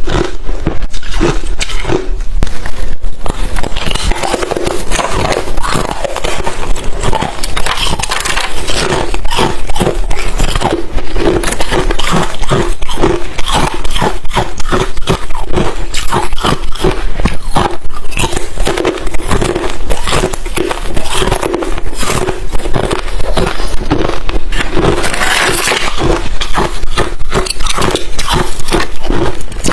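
Crushed, refrozen thin ice chips being bitten and chewed: a loud, continuous run of rapid crunches, a little brighter and more crackly about 25 seconds in.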